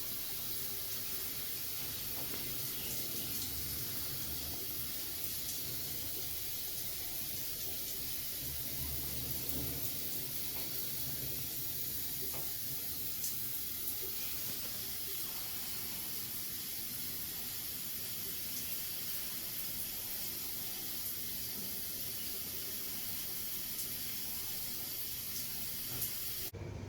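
Water running steadily from a tap, a constant hiss that cuts off suddenly just before the end.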